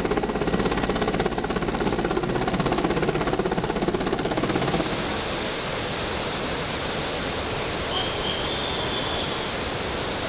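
A helicopter's rotor beating with a rapid, even pulse for about the first five seconds. It then cuts to a steady rushing of floodwater.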